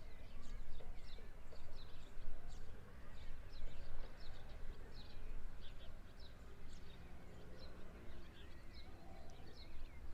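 Several birds chirping and calling repeatedly in short high notes, over a steady low background rumble.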